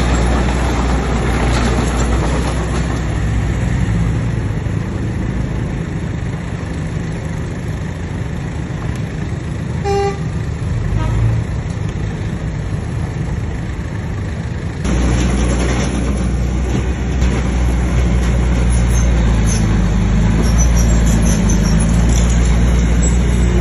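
Heavy diesel earthmoving machinery running steadily. A short horn toot sounds about ten seconds in. The engine sound jumps suddenly louder about two-thirds of the way through.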